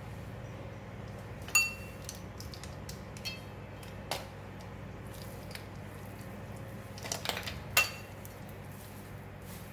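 A utensil clinking and knocking against the tray while chicken pieces are tossed in tempura flour: two sharp ringing clinks, one about a second and a half in and one near the end, with a few softer knocks between. A steady low hum runs underneath.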